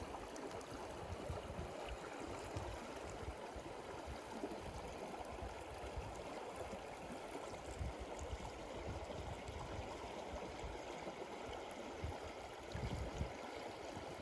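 A stream flowing with a steady rush of water, with irregular low rumbles underneath.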